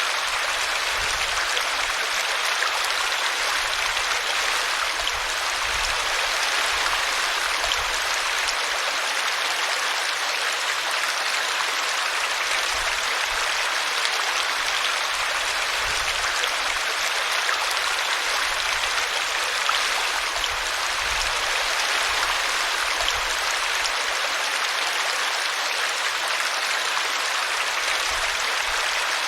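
Small brook flowing steadily over a tree root, with continuous babbling and splashing water.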